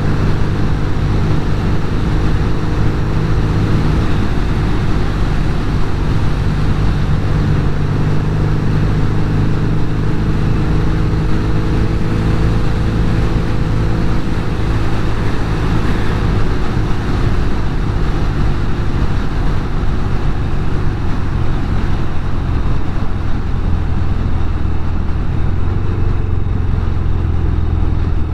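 Norton Commando 850 Mk2's parallel-twin engine running at a steady pace under way, with wind and road rush. The engine note settles lower over the last several seconds.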